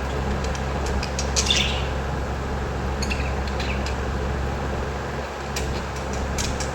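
Birds chirping in short, scattered bursts of high calls, over a steady low background rumble.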